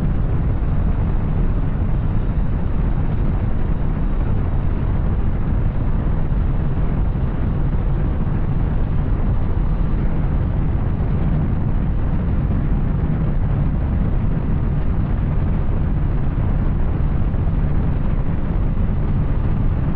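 Yamaha Tracer 900 inline-three motorcycle with an Arrow exhaust, running at a steady pace while riding, mixed with a heavy low rumble of wind on the microphone.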